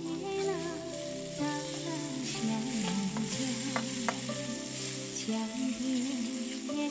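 Meat slices sizzling in soy sauce in a steel wok as a metal spatula stirs and scrapes them, with a couple of quick spatula clinks about four seconds in. Background music plays over the frying.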